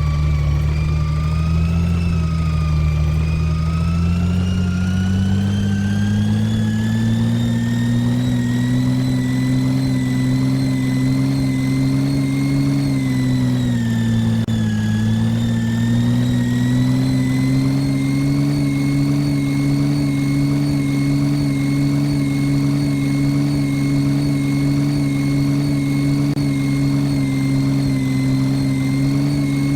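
Side-loader garbage truck's engine running, its pitch climbing over the first several seconds as it revs up, dipping briefly around the middle, then held steady at the higher speed.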